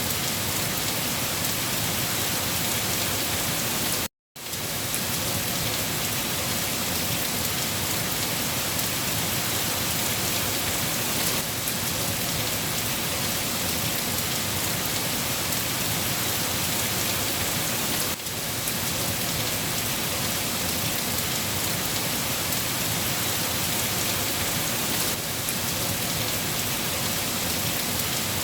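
Steady, heavy rain falling, an even hiss of rain on surfaces. The sound cuts out completely for a split second about four seconds in, then resumes.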